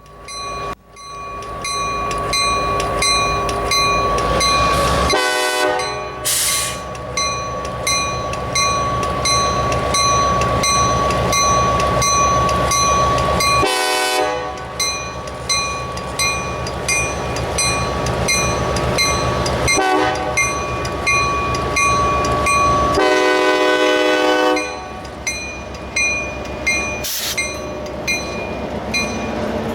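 EMD GP38 diesel locomotive running as it moves off, its bell ringing steadily about one and a half strokes a second, with three horn blasts spread through, the last the longest.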